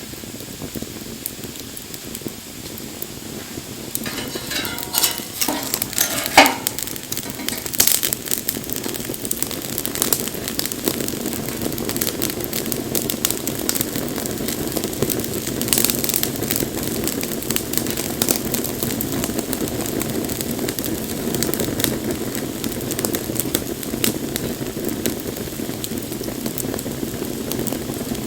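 Wood fire burning, crackling with scattered sharp pops over a steady hiss of flame. It grows louder about four seconds in, with a short burst of popping and sizzling soon after.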